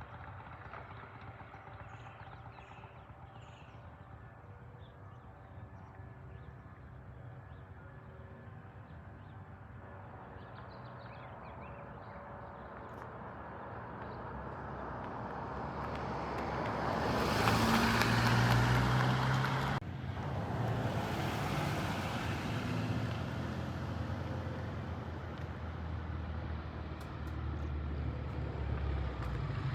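BSA A65 Lightning's 650 cc parallel-twin engine out on a test ride: faint at first, growing steadily louder to its loudest about 18 seconds in, then dropping off suddenly and running on at a moderate level.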